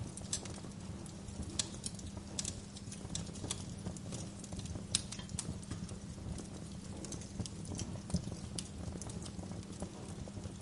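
Wood fire crackling in a fireplace: irregular sharp pops and snaps over a low, steady rumble of burning, with one louder pop about five seconds in.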